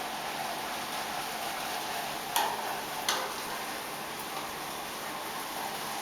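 Liquid nitrogen hissing steadily as it boils off while being poured into a bottle, with two sharp knocks, about 2.5 and 3 seconds in, from the bottle being handled.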